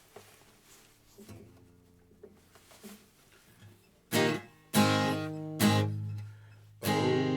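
Seagull S6 mahogany steel-string acoustic guitar, quiet at first with a few soft notes, then strummed chords starting about four seconds in, a slow strum roughly every second.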